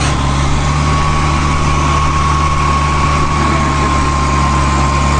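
An engine idling steadily: a constant low hum with a thin, steady whine above it, and no revving.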